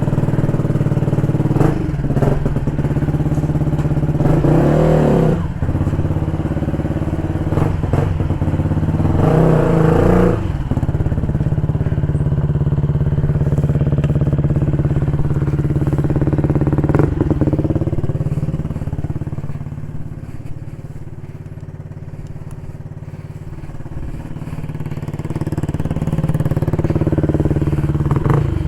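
2016 Yamaha MT-125's single-cylinder four-stroke through an Akrapovic full exhaust system, with an open intake. The engine runs steadily; its pitch rises and falls twice within the first ten seconds as it is revved. It eases off and goes quieter for a few seconds past the middle, then climbs again near the end.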